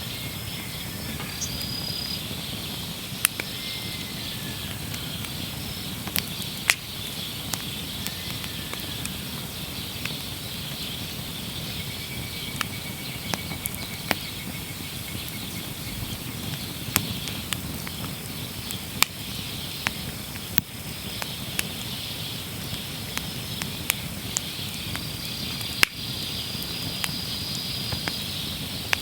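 Wood fire burning in a Snow Peak Takibidai L fire pit, crackling with irregular sharp pops, over a steady low flame rustle. A steady high chirring of insects runs underneath.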